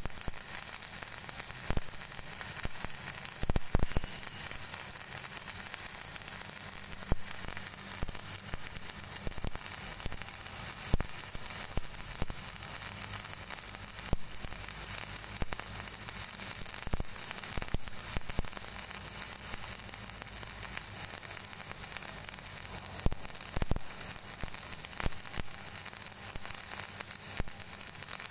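Stick (shielded metal arc) welding arc burning steadily with a constant crackling sizzle and occasional sharp pops, as a 2G horizontal-position weld is run.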